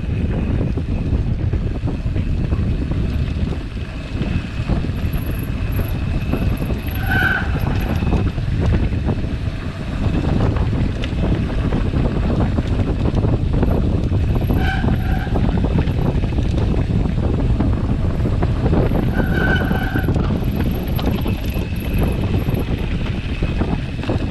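Heavy wind buffeting the camera microphone, with the rumble of a mountain bike rolling fast over a dirt road. Three brief high squeals cut through, about 7, 15 and 19 seconds in.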